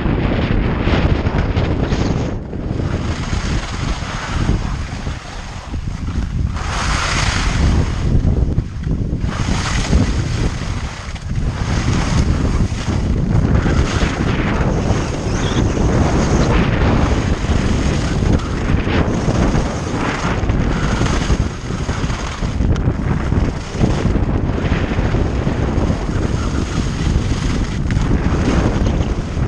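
Wind rushing over the microphone of a downhill skier, with skis scraping and hissing over soft spring snow in surges that swell and drop every second or two.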